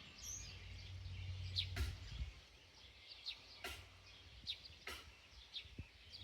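Small birds chirping repeatedly in the background, with a low steady hum that stops about two seconds in and three faint knocks spread through the rest.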